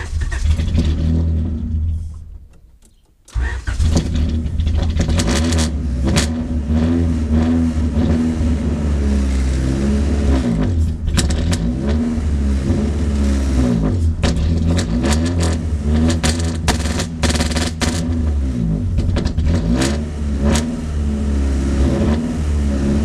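Honda H22A4 four-cylinder engine in a Civic starts, fades out and dies after about two seconds, then starts again about three seconds in and keeps running with the revs rising and falling. The engine has a blown piston ring in cylinder 1, and the owner takes its running for a sign of a big vacuum leak.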